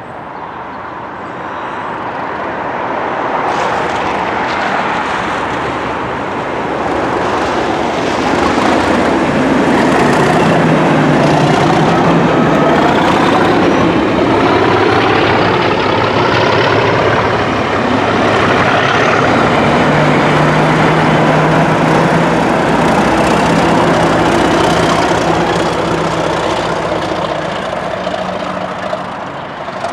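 A train passing close by: the sound builds over the first few seconds, runs loud and steady for most of the time, and eases off near the end.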